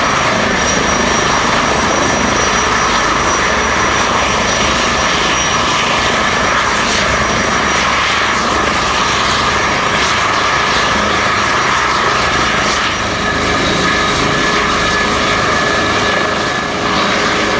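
Airbus Helicopters H160 landing: steady, loud rotor and engine noise with a high, held turbine whine.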